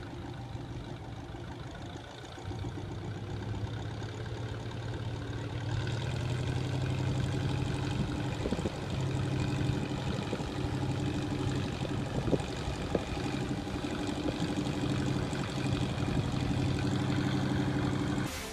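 A vehicle engine running steadily, growing louder a few seconds in, with a few short knocks.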